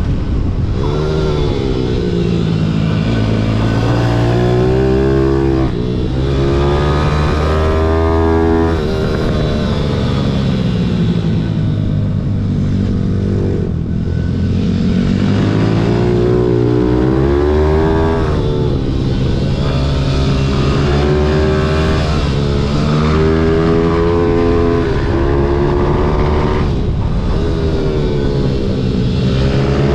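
Pit bike engine revving up and dropping back again and again, rising and falling in pitch every few seconds as the bike accelerates and slows.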